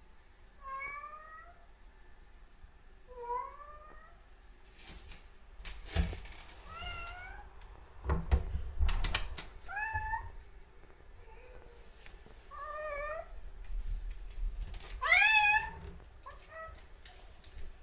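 Domestic cat meowing repeatedly, about seven meows a couple of seconds apart, each bending up in pitch. A few low thumps come in the middle.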